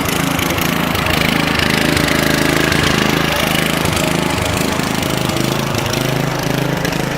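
Riding lawn tractor's small engine running steadily while being driven.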